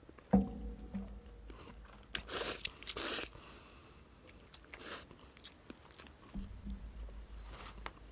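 A person eating close to the microphone: chewing, with several short, noisy mouth sounds and a soft knock near the start.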